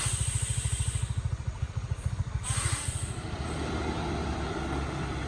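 Heavy tanker truck's diesel engine labouring on a steep climb, with a rapid low pulsing that evens into a steadier rumble about three and a half seconds in. Two short hisses of air come through, one at the start and one about two and a half seconds in.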